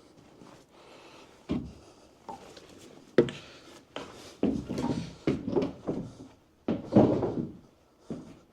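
Irregular knocks and bangs of wood and building material being hammered and pried loose during demolition, about a dozen strikes, loudest about seven seconds in.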